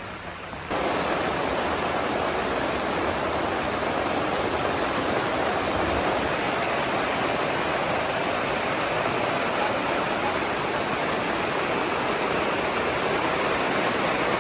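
Heavy rain pouring down in a steady, loud rush that starts abruptly about a second in.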